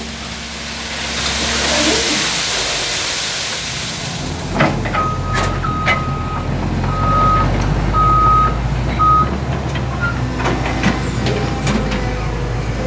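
Diesel dump truck engine running at a low idle, with a long hiss of air in the first few seconds, then a reversing alarm giving about five short beeps at one pitch and a few metallic knocks.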